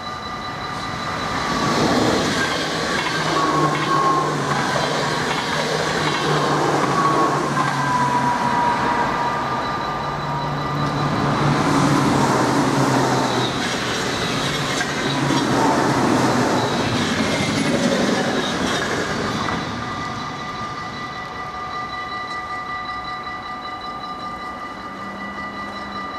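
A yellow NS electric intercity train passes over a level crossing: its wheels rumble on the rails for about twenty seconds, loudest in the middle, and then fade out. The crossing's warning bell keeps ringing steadily underneath.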